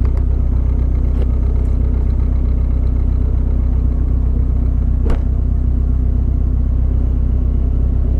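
Toyota Corolla's 1.8 L 7A-FE four-cylinder idling steadily through aftermarket headers and a Magnaflow exhaust, a deep, even rumble. A single short click sounds about five seconds in.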